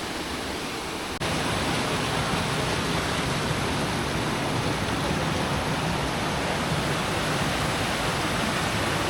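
Waterfall rushing: a steady, even wash of falling water. It breaks off briefly about a second in and comes back a little louder.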